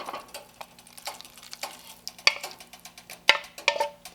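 Irregular clicks and knocks of a kitchen utensil against cookware, as in stirring or handling ingredients, with the two sharpest knocks a little past halfway.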